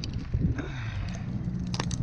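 Some knocks and clatter, then an engine comes on about halfway through and runs at a steady idle.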